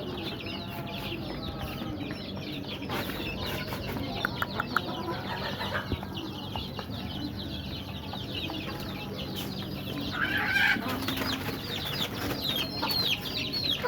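A flock of young chickens under a heat lamp peeping continuously: many short, high, falling peeps overlapping, with a louder call about ten seconds in.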